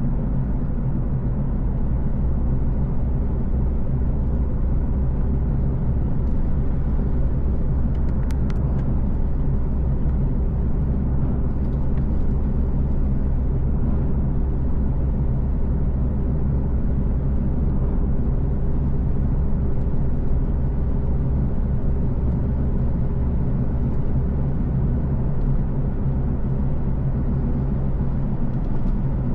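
Car driving at a steady pace: an even low rumble of engine and road noise, with one brief click about eight seconds in.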